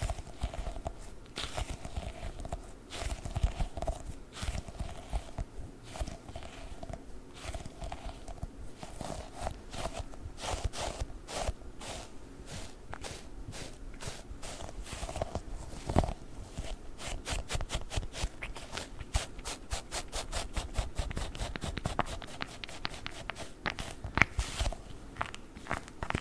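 Sticky gel Globbles being squished and pulled off surfaces close to the microphone: a stream of sticky clicks and peeling sounds, with a fast run of clicks around the middle.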